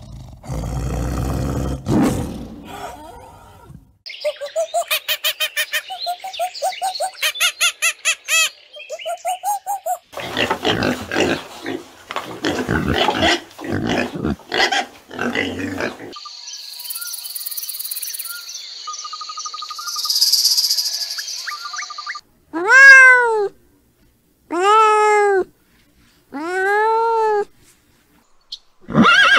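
A string of separate animal sound clips. It opens with a tiger's low growl, followed by a few seconds of fast repeated chirping calls. Next come pigs grunting and squealing, then a high hissing stretch, and near the end a domestic cat meows three times.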